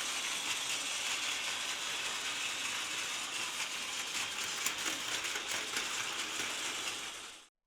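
Battery-powered Plarail toy train running on plastic track: a steady whir from its small motor and gearbox with fine clicking. It cuts off suddenly near the end.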